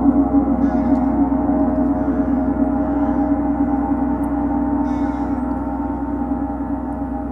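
A gong ringing on after being struck, a sustained hum with many overtones slowly dying away.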